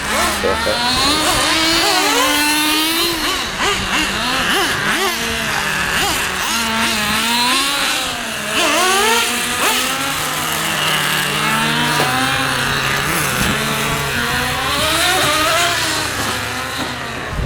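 Nitro-fuelled RC car engine revving up and down over and over, its high pitch rising and falling as the throttle is worked.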